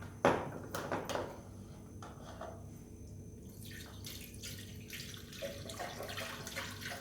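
A few sharp knocks of a container in the first second, then base juice being poured into a blender jar, a splashing hiss that builds toward the end.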